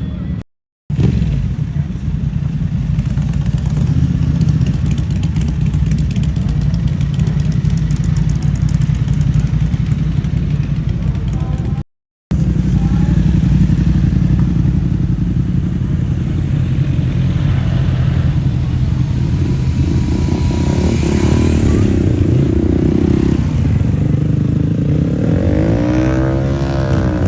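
Motorcycle engines running steadily, with a brief rise and fall near the end as a vehicle passes close by. The sound cuts out completely twice for a moment.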